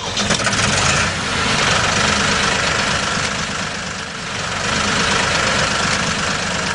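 Tractor engine idling steadily with a rapid, even chugging.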